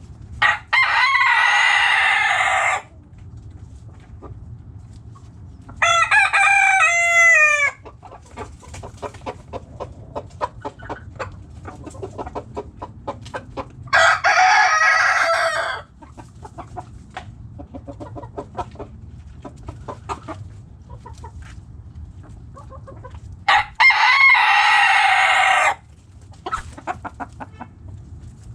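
Roosters crowing four times, each crow lasting about two seconds, with hens clucking in short calls in between.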